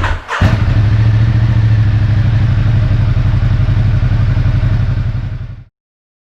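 2016 Ducati XDiavel S's V-twin engine turned over by the starter, catching less than half a second in and then idling steadily with a low, even throb. The sound cuts off suddenly near the end.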